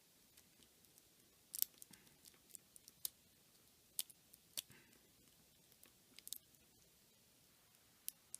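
Scattered small, sharp plastic clicks and crinkles, about half a dozen, from protective plastic being picked off the arm of an S.H. Figuarts action figure, with near silence between them.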